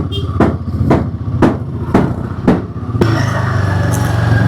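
Motorcycle engine running steadily, with regular thuds about twice a second for the first three seconds. After an abrupt change, a steadier, louder engine note runs on without the thuds.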